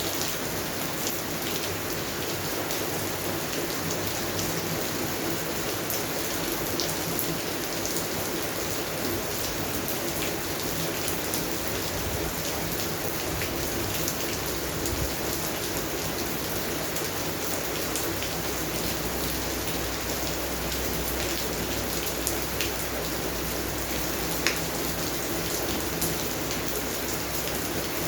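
Steady rain falling on a garden, with scattered close drops ticking on top.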